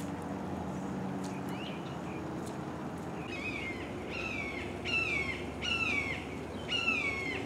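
A bird calling: a run of about five harsh, descending calls, each about half a second long, starting about three seconds in, with a couple of short rising chirps before them.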